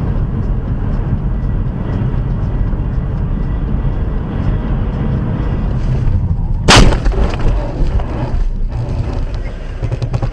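Loud low rumble of a car driving, with one sharp bang about seven seconds in: a collision.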